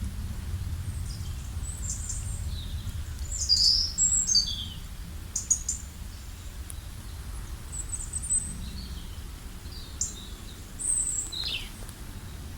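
Small birds chirping and calling in short, high-pitched notes and quick downward sweeps, scattered irregularly, over a steady low rumble.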